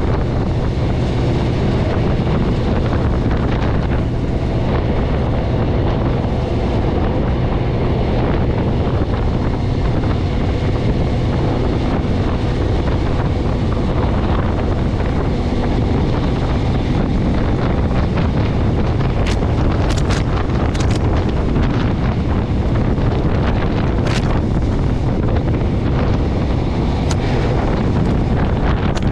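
Wind rushing over the microphone with the steady running rumble of a regional train in motion. A few sharp clicks come in the last third.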